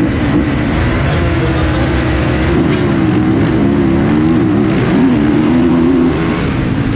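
Motocross bike engine running hard, its revs rising and falling over and over as the throttle opens and closes.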